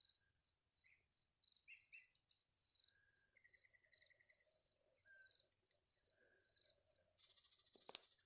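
Faint wildlife chorus: a high chirp repeating about two to three times a second, with scattered short bird-like calls and a brief trill. Near the end comes a short buzzy rattle and one sharp click.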